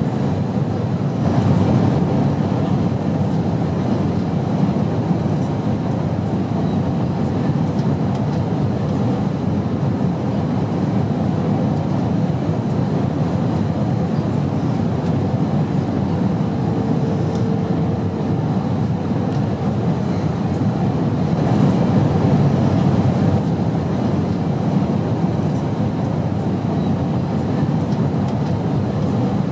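Airplane in flight: a steady, even low rumble of engine and air noise, swelling slightly twice.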